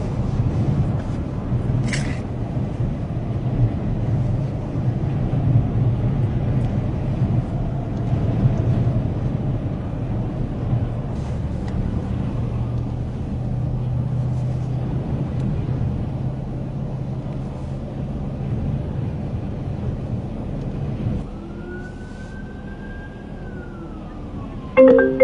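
Strong wind rumbling and buffeting against the microphone, cutting off suddenly about 21 seconds in. A quieter stretch follows with a faint tone that rises and then falls, like a distant siren.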